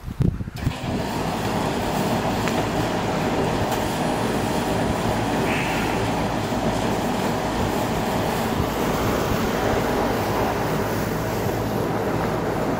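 Intermodal freight train rolling past: a steady rumble of steel wheels on the rails that starts abruptly about half a second in and holds level.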